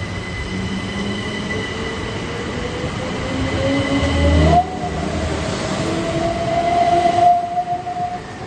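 Train at a station, its motor whine rising steadily in pitch as it accelerates, before cutting off sharply near the end.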